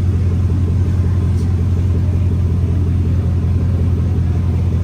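Cadillac engine idling steadily with a low, even rumble through a newly installed, quieter muffler and exhaust that has replaced a small exhaust with an annoying ringing drone.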